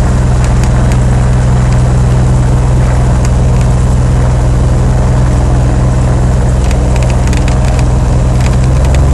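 The six-cylinder Continental O-470 engine and propeller of a Cessna 182P, running steadily as a loud, even drone heard inside the cabin, with faint crackles over it near the end.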